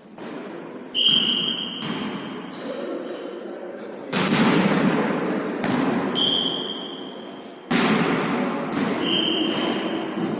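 A volleyball is struck and bounced in a large echoing hall: several sharp thuds, each trailing off in reverberation. Three short, steady, high-pitched tones are heard among them.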